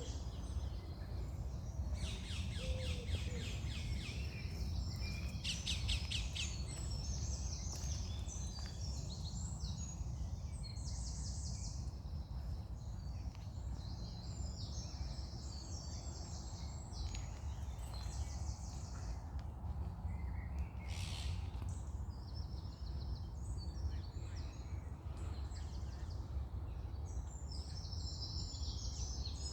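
Several songbirds singing and chirping in overlapping short phrases, with a few rapid trills of repeated high notes, over a steady low rumble.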